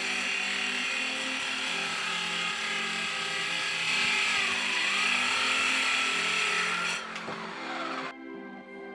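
Electric drill spinning a homemade circular saw blade at speed, with a steady whine that sags briefly about halfway through and then recovers. About seven seconds in the drill is switched off and winds down.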